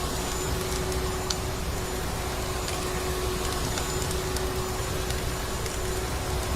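Vacuum cleaner motor running at a constant pitch over a steady low rushing noise, with sparse faint crackles of a wood fire.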